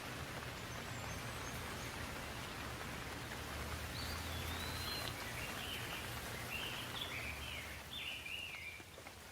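Steady rain hissing, with a low rumble underneath. From about four seconds in, a bird sings a run of short, quickly rising and falling phrases.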